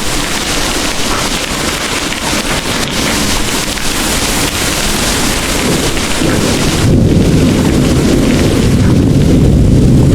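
Heavy rain pouring in a steady hiss. About two-thirds of the way through, a deep rolling rumble of thunder rises and becomes the loudest sound.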